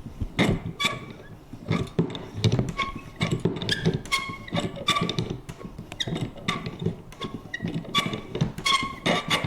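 Vintage paper punch worked over and over: irregular clicks, two or three a second, each with a short high creak.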